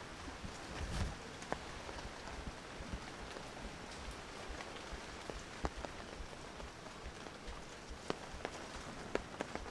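Steady tropical rain hissing, with scattered close drips tapping sharply on surfaces and a dull thump about a second in.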